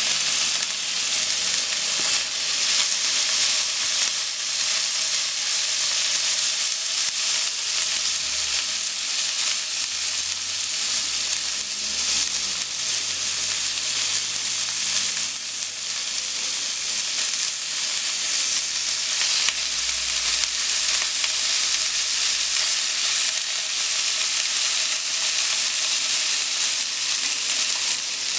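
Meat-wrapped potato sticks frying in oil in a frying pan: a steady sizzle, with light taps and scrapes of wooden chopsticks turning the rolls.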